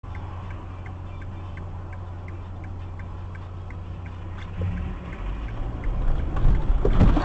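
Inside a moving car: a steady low engine hum with a regular light ticking, about three ticks a second. From about halfway the low rumble of engine and road noise grows, turning loud near the end.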